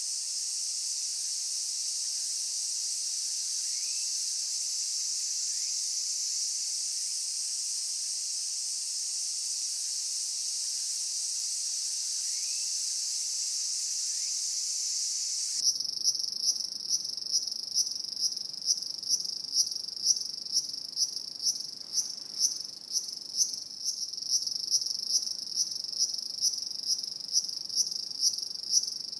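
Night insects chirping: a steady, dense high-pitched chorus that changes abruptly about halfway through to a rhythmic chirp repeating about twice a second.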